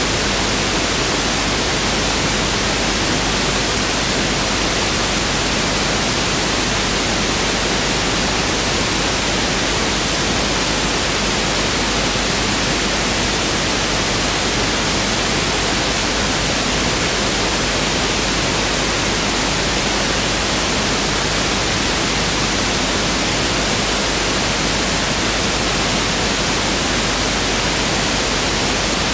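Pink noise test signal (1/f noise): a steady, unchanging hiss with equal energy per octave, running continuously at a constant level.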